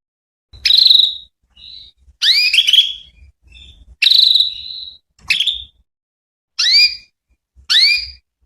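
Female canary calling: a series of short, high, upward-sweeping chirps about once a second, some held for up to a second. It is a female's call used as a lure to prompt male canaries to answer.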